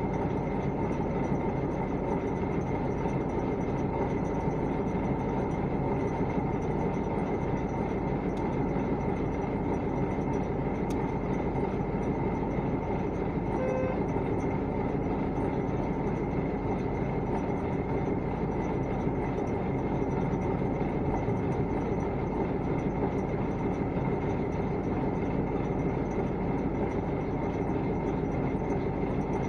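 Steady running noise of a vehicle, an even rumble with a faint constant hum that does not change in pitch or loudness.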